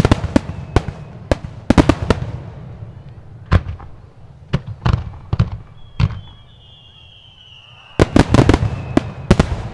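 Aerial fireworks going off in a barrage: a series of sharp bangs in quick clusters, with a thin whistling tone gliding slowly down midway and a dense run of bangs near the end.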